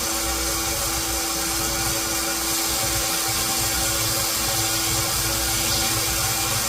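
A motor-driven shop machine running steadily, with a constant hum and a hiss.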